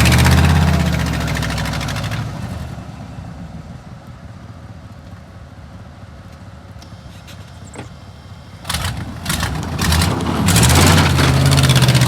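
Car engine with a rough, nasty-sounding exhaust running loudly under throttle, then dropping away to a low level after about two seconds. It comes back loud again from about nine seconds in.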